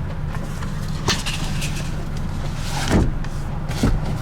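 A few sharp clicks and knocks from handling the folding rear seats of a car, the loudest near the three-quarter mark, over a steady low hum.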